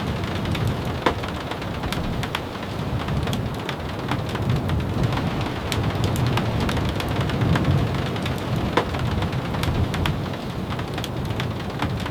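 Steady rain with a deep low rumble underneath and many sharp ticks scattered through it.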